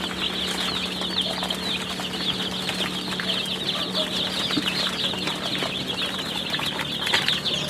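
A brooder full of day-old Aseel chicks peeping continuously, a dense chorus of many overlapping high-pitched cheeps, with a steady low hum underneath.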